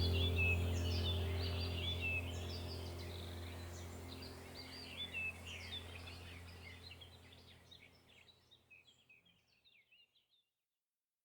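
Songbirds chirping and trilling over a steady low hum, the whole fading out gradually to silence near the end.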